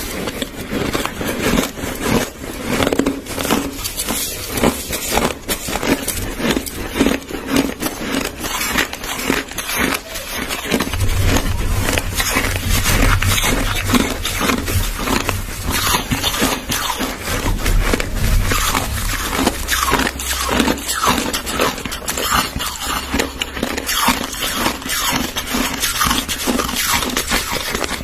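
Crushed ice being chewed close to the microphone: dense, continuous crunching, many crunches in quick succession.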